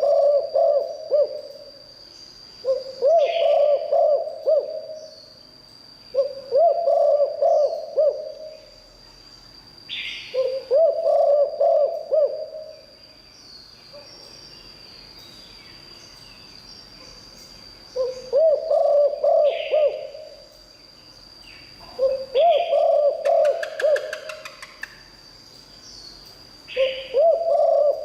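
Spotted dove cooing: a short cooing phrase repeated every three to four seconds, with a longer pause about halfway through. A steady high thin whine runs underneath, and short chirps from other birds come between the phrases.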